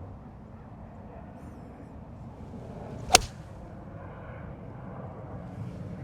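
A single crisp strike of a golf club on a ball, about three seconds in, over a steady low rumble that grows slightly toward the end.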